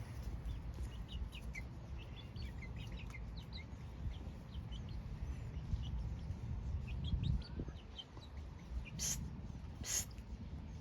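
Chickens clucking and chirping softly, many short high calls, over a low rumble. Two short scratchy rasps come near the end.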